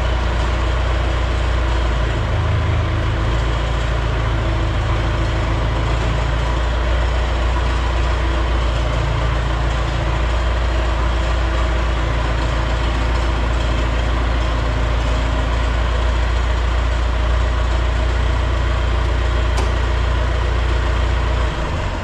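An engine running steadily with a deep drone and a broad hiss over it; the sound drops away just before the end.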